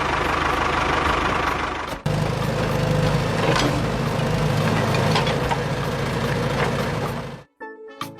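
Engine of a homemade mini tractor running steadily, broken off for a moment about two seconds in. It cuts out near the end as music starts.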